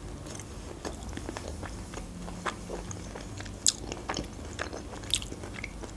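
A person chewing food with the mouth closed: soft, wet mouth clicks and smacks, with a few sharper ticks about midway and near the end.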